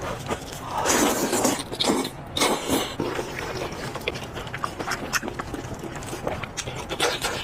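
A person eating close to the microphone: bursts of chewing and sucking noises, then a run of small smacking clicks.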